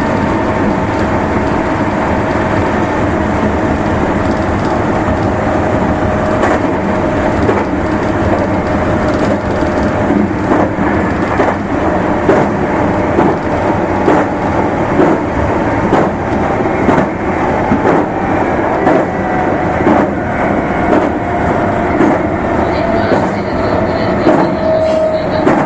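Running sound of a Meitetsu Nagoya Main Line limited express train: a steady rumble of wheels on rail with a faint whine. From about ten seconds in come rail-joint clacks, roughly one a second.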